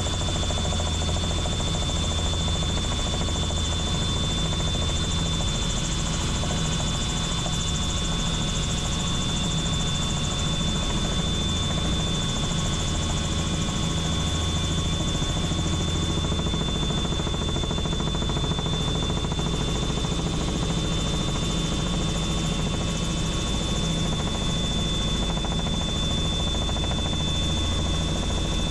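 Helicopter in steady flight: an even, low rotor drone with a thin, steady high-pitched whine above it.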